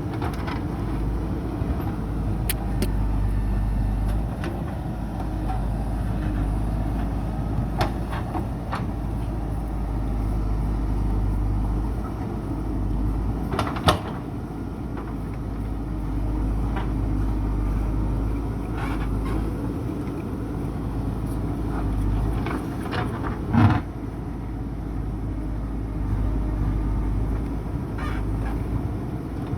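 JCB backhoe loader's diesel engine running steadily while it works. Two sharp knocks stand out, one about halfway through and a louder one later on.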